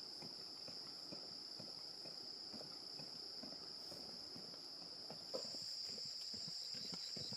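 Insects chirring in a steady high drone, with a second, higher insect sound joining a little after five seconds in. Under it runs a string of soft, irregular low knocks.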